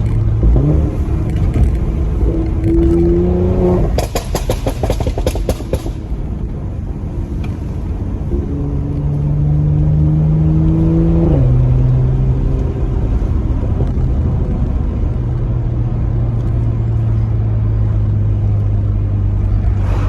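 2017 Mercedes-AMG C43's twin-turbo V6 through the factory performance exhaust, on a Eurocharged Stage 1 tune, accelerating with rising pitch, then a rapid string of pops and crackles on lift-off lasting about two seconds. It pulls again, shifts up with a sudden drop in pitch, and settles into a steady cruise.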